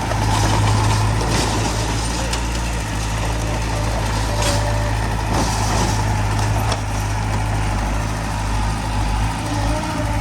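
Diesel engines of heavy earthmoving machinery running steadily, with a few sharp metallic clanks and a short hiss about halfway through.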